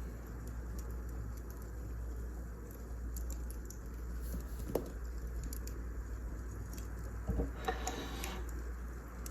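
Firewood burning in a fireplace, crackling with scattered small pops over a low steady rumble, and a quick cluster of crackles about eight seconds in.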